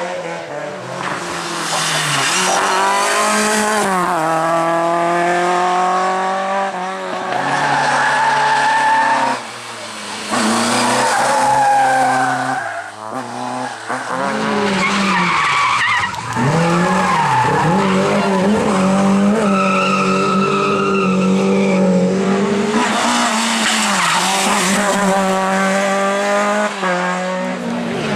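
Rally cars driven hard at full throttle. The engine notes climb and drop sharply through gear changes and lifts, with tyres skidding and squealing. The sound switches abruptly a few times between passes.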